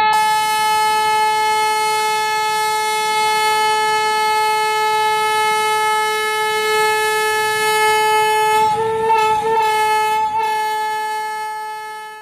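Diesel locomotive horn of a WDP-4D blown as one long, steady note. It wavers briefly about three-quarters of the way through, then fades out at the end.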